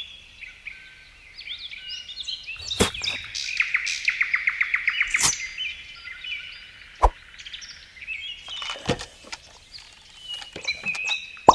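Birds chirping, with a fast trill of repeated chirps a few seconds in, and a few sharp knocks.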